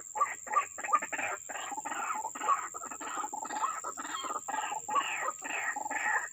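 White-breasted waterhen's harsh, repeated 'ruak-ruak' croaking calls, an unbroken series of about three notes a second.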